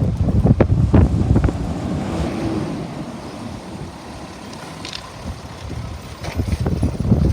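Wind buffeting the microphone with a low rumble. It is strongest in the first second or so, eases off, then builds again near the end.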